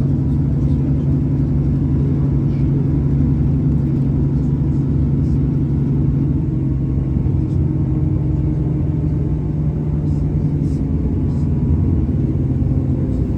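Cabin sound of a diesel passenger train running: a steady low engine drone under the rumble of wheels on rails, with a few faint clicks.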